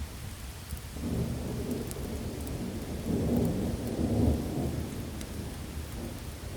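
Steady heavy rain with a roll of thunder rumbling in about a second in, swelling to its loudest around three to four seconds and dying away near the end.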